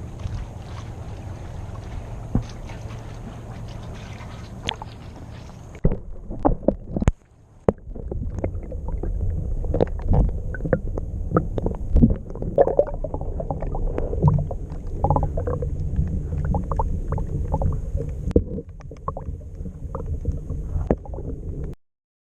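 Muffled water sloshing and gurgling picked up by a GoPro Hero Session action camera held underwater, with scattered knocks and clicks against the camera. A run of louder knocks comes about six seconds in, and after it the deep rumbling water noise is louder, then cuts off suddenly near the end.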